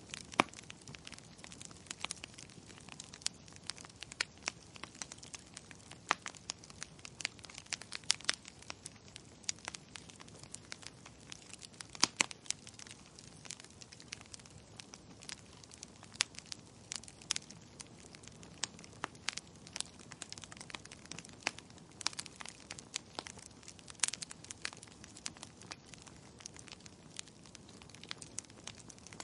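Burning firewood crackling: irregular sharp pops and snaps, several a second, over a soft steady hiss, with a few louder pops here and there.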